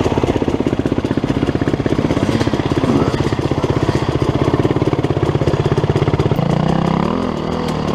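KTM 300 two-stroke dirt bike engine running at low revs with a rapid, even pulse, then a smoother note from about six seconds in, with a brief rise and fall in pitch near the end.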